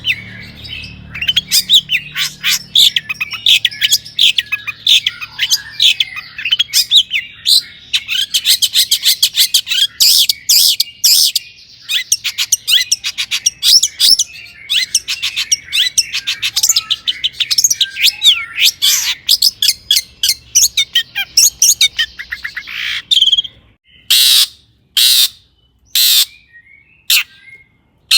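Long-tailed shrike (cendet) singing in full voice: a fast, varied chatter of short high notes with imitations of other birds worked in, broken by harsh rasping notes. Near the end it gives about four loud harsh rasps, roughly a second apart.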